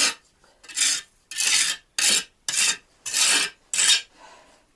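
Steel trowel scraping and spreading cement mortar, about seven quick rasping strokes in a row, roughly two a second, that stop about four seconds in.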